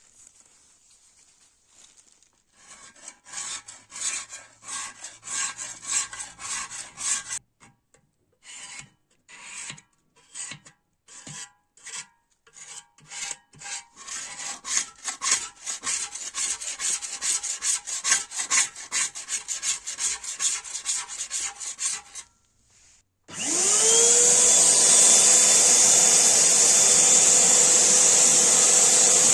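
Rhythmic hand rubbing strokes, a few a second with short pauses, like sanding or filing. Then, near the end, a 1980 vacuum cleaner's electric motor is switched on: it whines up in pitch within a second and runs steadily and loud.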